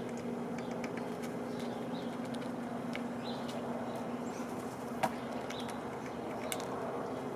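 Birds at a feeder: a few short high chirps and scattered sharp taps, with a louder tap about five seconds in, over a steady low hum.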